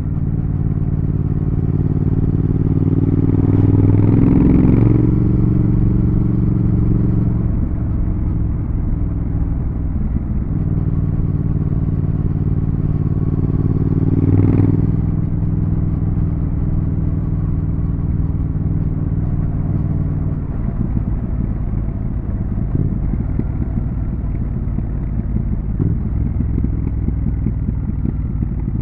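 Triumph Thruxton RS's 1200 cc parallel-twin engine running on the road. Its note rises about four seconds in and then drops back. A short sharp rev blip comes about halfway through, and the rest is a steady cruise.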